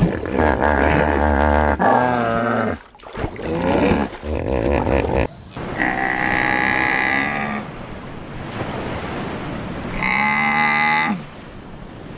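A series of drawn-out animal calls from a large mammal, each about one to two seconds long with a wavering pitch, separated by short gaps. There is an abrupt change in recording about five seconds in.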